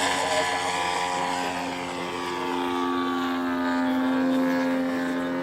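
Engine and propeller of a radio-controlled Zlin 50 aerobatic model plane in flight, a steady pitched drone that sags slightly about two seconds in and then holds.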